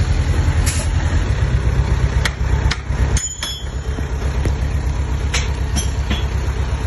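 Komatsu D20P bulldozer's diesel engine running with a steady low throb, with scattered sharp clicks and knocks and a brief high squeal about three seconds in.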